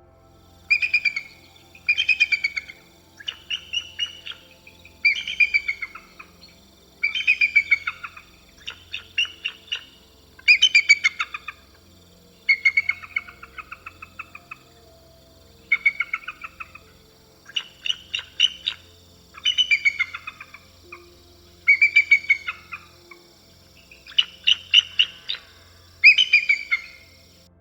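Bald eagle calling: repeated series of rapid, high, thin chirping notes, a new series every one to two seconds.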